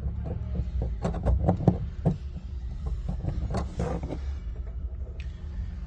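Light knocks, taps and scrapes of a hand-held plastic welding iron being worked over a polyethylene tank's weld, clustered about a second in and again near four seconds, over a steady low hum.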